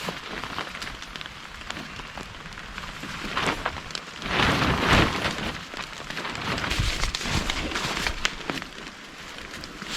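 Rain falling and spattering on surfaces as many small irregular ticks, with a louder swell of noise about halfway through.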